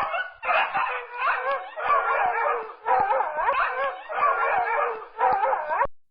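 An animal calling in a series of wavering, warbling cries, about six bouts with short breaks, cut off abruptly near the end.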